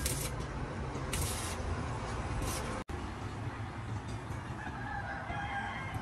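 Steady low rumble with three short scraping hisses in the first half, and a faint drawn-out bird call near the end.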